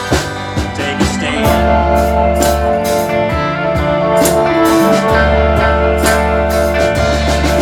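Live band playing an instrumental passage between sung lines, with guitar, bass and a steady drum beat.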